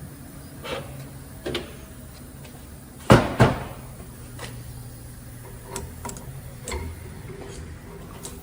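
Heavy brake caliper parts being handled on a bench: scattered light taps and clicks, with two loud knocks close together about three seconds in.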